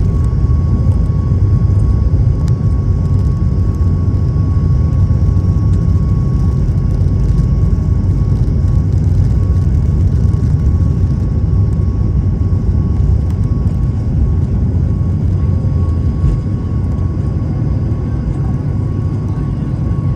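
Boeing 737 MAX 8's CFM LEAP-1B jet engines running at takeoff power: a loud, steady low rumble with a thin, steady high tone above it, easing slightly near the end.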